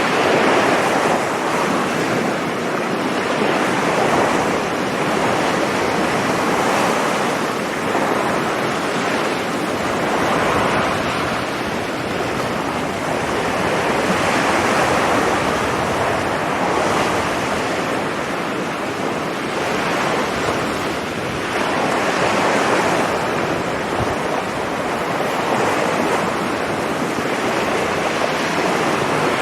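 Sea waves breaking on a beach, the surf swelling and easing every few seconds, with wind on the microphone.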